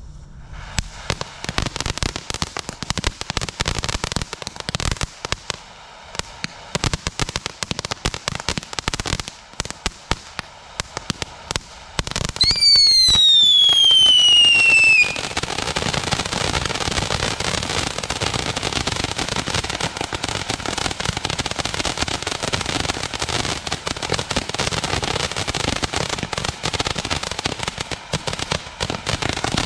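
Shogun Fireworks 'That's Crazy' angled fountain firework burning: a dense run of crackling pops, then one loud whistle falling in pitch for about three seconds, then a thick, steady crackle and hiss.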